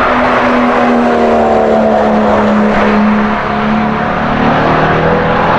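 Car engine at speed on a race circuit, its note held high and sliding slowly lower in pitch as it goes by. A second, lower engine note joins near the end.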